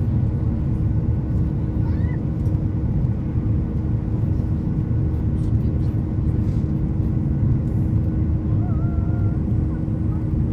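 Steady low cabin rumble of a Boeing 737-800 airliner, engine and airflow noise with a constant hum underneath. A faint high-pitched voice glides briefly twice, once about two seconds in and again near the end.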